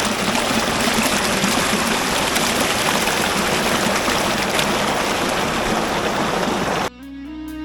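Steady, loud rush of water from a high waterfall, cut off near the end by guitar music coming back in.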